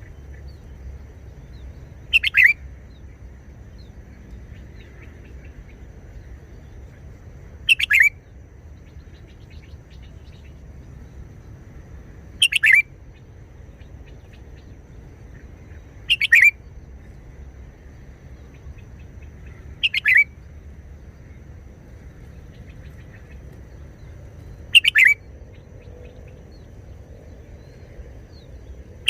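Red-whiskered bulbul singing short phrases, six in all, one every four to five seconds, over a faint low hum.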